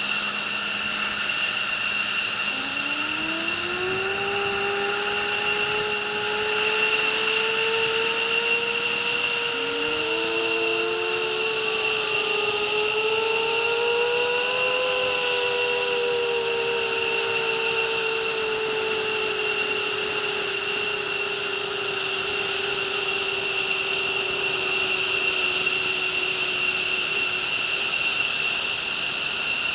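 F-15's twin Pratt & Whitney F100 turbofans being started one after the other over a steady high-pitched whine. A rising whine begins a few seconds in as the first engine spools up, a second rising whine joins about seven seconds later, and both level off to a steady pitch.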